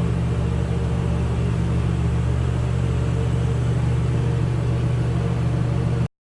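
A car engine idling steadily with an even low hum that does not rise or fall; it cuts off suddenly near the end.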